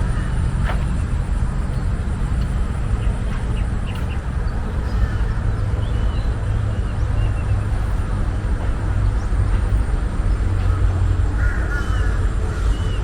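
Birds calling in an urban park over a steady low rumble of city traffic: scattered short chirps throughout and a brief warbling call near the end.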